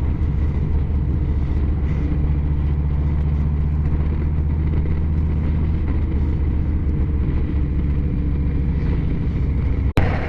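Harley-Davidson Low Rider ST's Milwaukee-Eight 117 V-twin running steadily under way, its exhaust opened up by a stage 1 kit, with a low engine note that shifts about two seconds in. A sharp click and a brief dropout come near the end.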